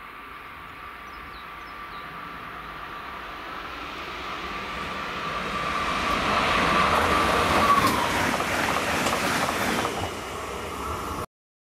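A train on a main-line railway approaching and passing, growing steadily louder to its loudest about two-thirds of the way in. A steady high whine runs through it and drops a little in pitch as the train goes by. The sound cuts off abruptly near the end.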